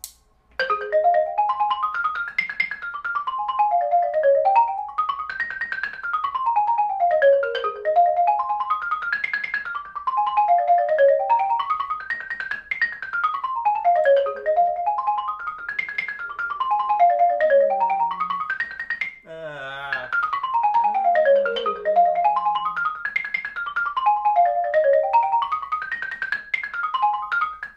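A xylophone played with mallets in fast runs of single struck notes: arpeggios and scales over B flat 7, E flat 7 and A flat 6 chords, climbing and falling again and again, each up-and-down lasting about two seconds.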